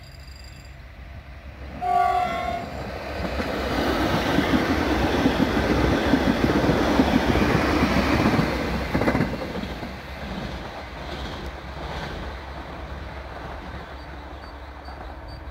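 HŽPP series 6112 electric multiple unit giving a short horn blast about two seconds in, then passing close by: the rumble of its wheels on the rails swells to a peak midway and fades as it moves off.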